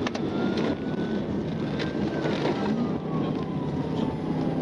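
Police patrol car driving hard at high speed, heard from inside: a loud, steady rush of engine, road and wind noise. Behind it the siren wails faintly, slowly rising and then falling.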